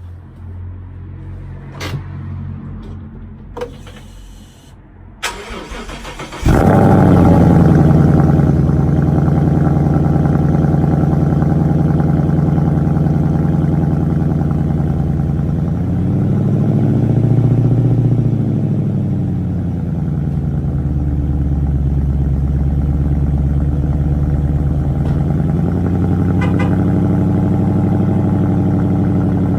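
2015 Ford Mustang GT's 5.0-litre V8 on a cold start. A few clicks come first, then the engine catches loudly about six and a half seconds in and settles into a steady idle. Its pitch rises and falls once around the middle.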